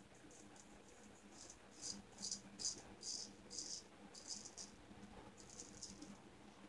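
Shavette razor with a double-edge blade scraping through lathered stubble: a run of about a dozen short, raspy strokes, two or three a second.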